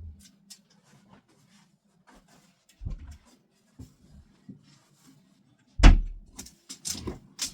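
Scattered light knocks and rustles from clothes and furniture being handled, then a heavy thump about six seconds in and a few sharper knocks near the end.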